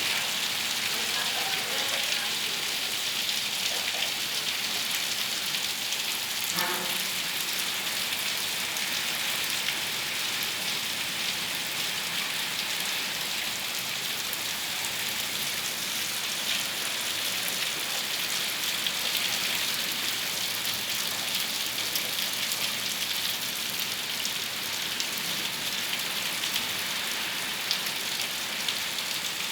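Heavy rain falling steadily: a dense, even hiss full of fine drop taps.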